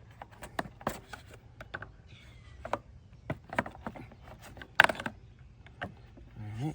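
A screwdriver working at the plastic clips holding a lawnmower's recoil starter: scattered light clicks and knocks of metal on plastic, with one sharper clack about five seconds in.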